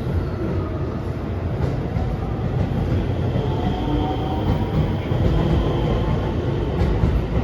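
Electric train running through a station: a steady heavy rumble with a faint high whine over it.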